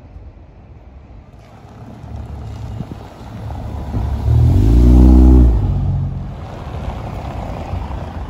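Ford Mustang EcoBoost's 2.3-litre turbocharged four-cylinder accelerating past close by. Its engine note builds, peaks loudly from about four to five and a half seconds in with the pitch rising then falling, and then fades into quieter street traffic.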